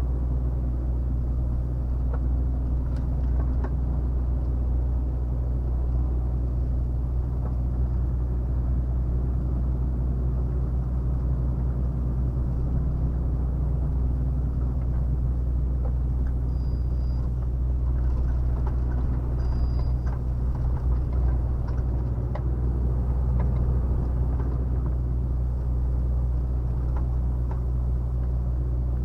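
Volvo FH 460 truck's 13-litre six-cylinder diesel engine running steadily under way, with a constant low drone and road rumble heard from inside the cab.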